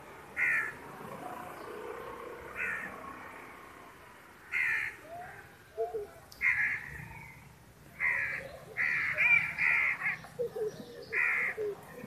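Short harsh bird calls, one every two seconds or so, then three in quick succession about nine seconds in.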